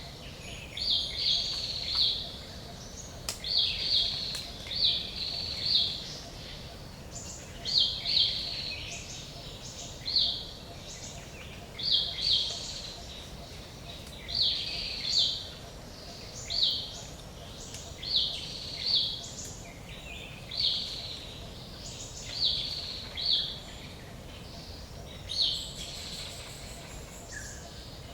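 Forest ambience with a bird giving short, high chirping calls, repeated every second or two, over a steady low rush of background noise.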